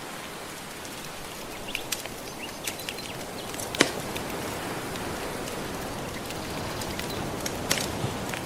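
Soft waves washing steadily on a shore, with a wood fire crackling over it in scattered sharp pops; the loudest pop comes about four seconds in.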